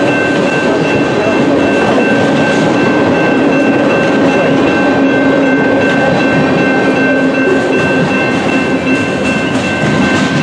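Freight train cars (tank cars, a covered hopper, centerbeam flatcars) rolling past: a steady rumble of steel wheels on the rails, with a steady high-pitched ringing tone held over it.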